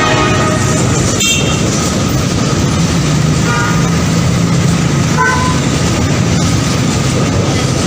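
A train running, a loud steady rumble with a low hum under it, with three brief high tones along the way.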